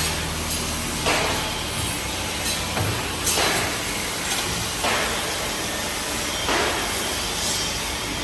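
CNC hydraulic tube-bending machine working: a steady machine hum with a short hiss every second and a half or so.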